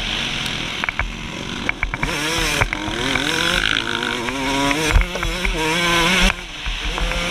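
2003 Suzuki RM125's two-stroke single-cylinder engine revving up and down over and over as it is ridden on a motocross track, with a few sharp knocks and a short drop in engine sound near the end.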